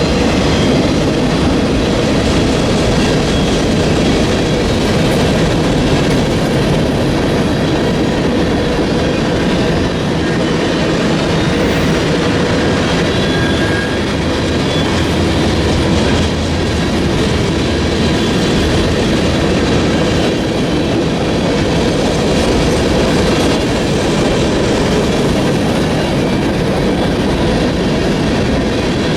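Freight train cars rolling steadily past, a loud, even run of steel wheels on rail.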